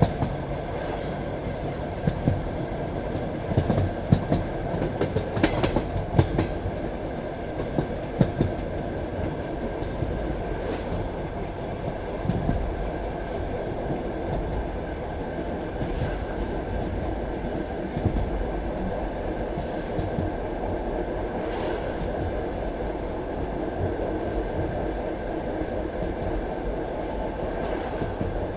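Passenger train carriage running on the track: a steady rumble of wheels on rails, with a run of sharp knocks and clicks from the wheels over the first several seconds.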